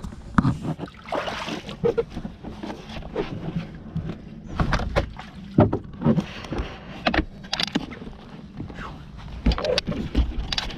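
Irregular knocks and thumps, with water sloshing, as a person moves around a jet ski in shallow water. A low, steady hum runs underneath.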